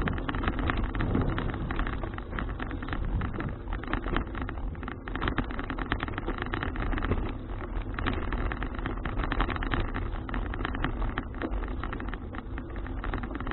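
Riding noise picked up by an action camera on a moving folding bicycle: wind on the microphone and the bike's rattle over the road. It is a dense, steady rumble and clatter.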